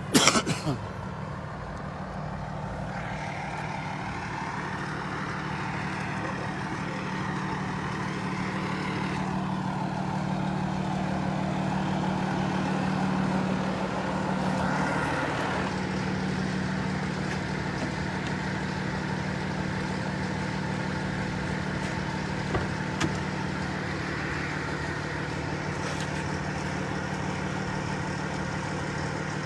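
Steady drone of an idling vehicle engine, with a brief sharp noise right at the start and a slow swell and fade of broader road noise in the first half.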